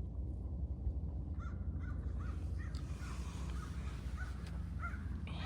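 Birds giving a quick series of short, harsh calls, starting about a second in, over a steady low rumble.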